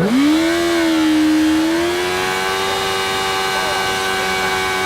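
Yamaha R1 inline-four engine revving up sharply right at the start, then held steady at high revs during a burnout, with the rear tyre spinning while the front brake holds the bike.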